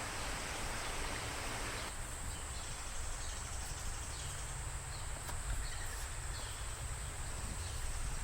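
Outdoor campsite ambience: a steady, high-pitched insect chorus with a few faint short chirps. A soft hiss underneath drops away about two seconds in.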